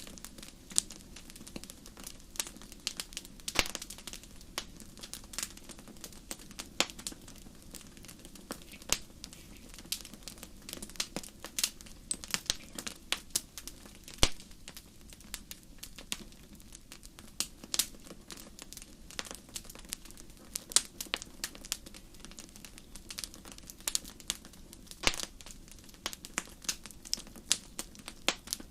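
Wood fire in a fireplace crackling, with irregular sharp pops and snaps over a faint steady low background.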